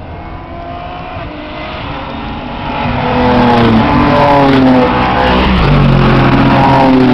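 Several GT race cars' engines pushed hard as the cars approach and pass, with overlapping engine notes rising in pitch. The sound builds and turns loud about three seconds in, and one engine note drops sharply in pitch as a car goes by.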